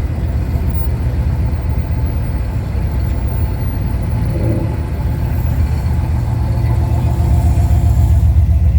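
Car engine running at idle with a low, pulsing exhaust rumble that gets louder near the end.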